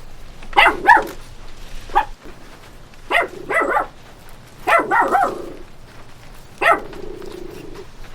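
A dog barking repeatedly, in quick runs of two to four barks with short pauses between them.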